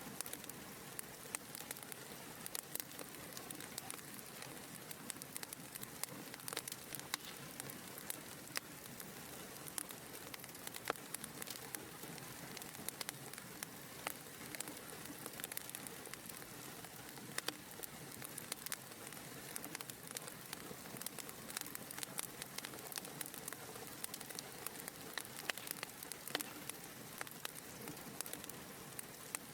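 Wood fire burning in a fireplace, crackling steadily: a soft hiss with frequent, irregular sharp pops and snaps.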